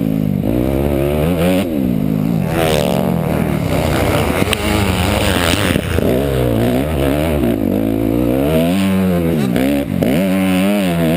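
Motocross bike engine revving up and down over and over as the throttle is opened and closed, the pitch climbing and dropping every second or two.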